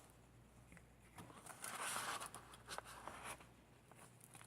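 Soft rustling of paper as the pages and tags of a handmade paper journal are handled and turned, loudest about two seconds in, with a few light clicks.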